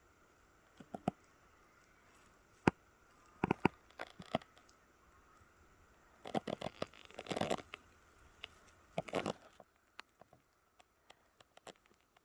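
Dry wood snapping and crackling: irregular sharp cracks, with denser runs of crackling about six to seven and a half seconds in and again around nine seconds in, then a few scattered clicks.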